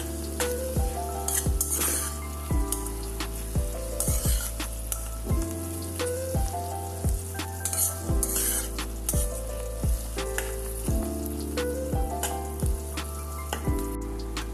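Peanuts, onions and spices frying in oil in a steel kadhai, sizzling as a metal spatula stirs and scrapes them, with a few louder stirring strokes. Background music with a steady beat and bass plays throughout.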